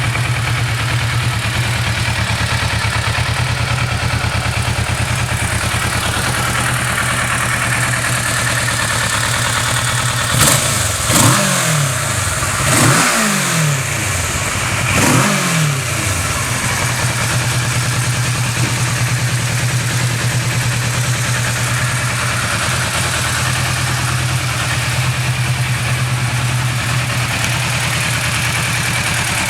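Kawasaki Versys 650's parallel-twin engine idling steadily. Around the middle it is revved about four times in quick succession, each blip rising sharply and falling back to idle.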